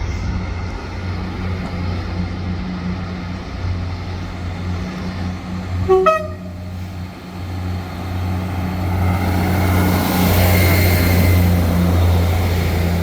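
British Rail Class 158 diesel multiple unit running with a steady low engine hum, giving a short horn toot about six seconds in. From about eight seconds its engines grow louder as it pulls away.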